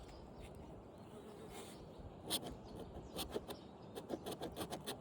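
Line being marked on a metal compressor shell: a run of short, scratchy strokes, several a second, starting about two seconds in.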